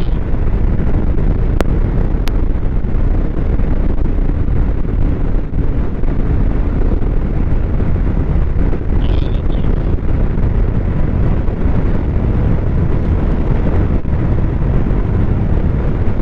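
Strong wind buffeting the microphone in a steady low rumble over a running snowmobile. A short higher-pitched sound comes about nine seconds in.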